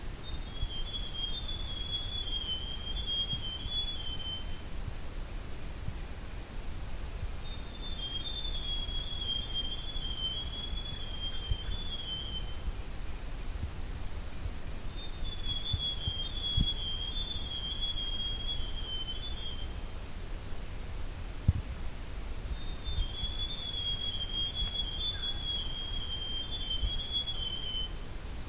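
Forest scrub robin singing four short warbling phrases that wander up and down in pitch, one every seven or eight seconds, over a steady high-pitched insect drone.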